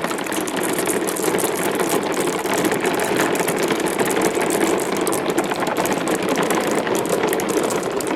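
Many marbles rolling and clattering down a marble run together, a continuous dense rattle of quick small clicks.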